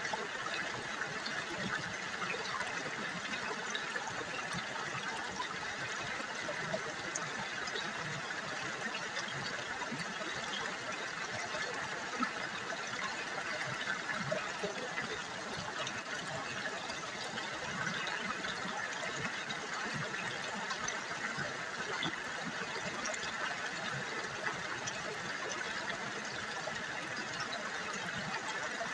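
River water babbling and trickling steadily over stones.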